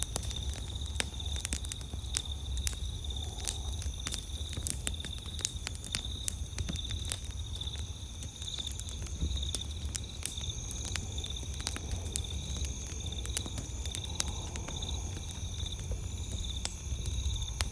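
Wood campfire crackling, with frequent irregular sharp pops and snaps, over a steady, pulsing high chirring of crickets and a low rumble underneath.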